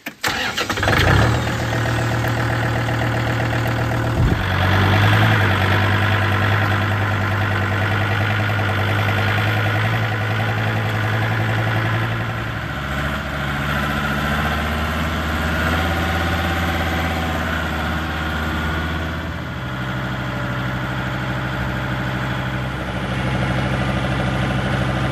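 Kubota L3750 tractor's diesel engine starting and then running steadily. Its engine speed changes in steps a few times, about 4, 12 and 19 seconds in.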